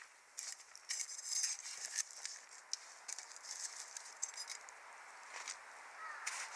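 Wood fire burning in a Snow Peak Takibi fire pit, crackling with frequent sharp pops over a steady hiss. A short rising whistle comes near the end.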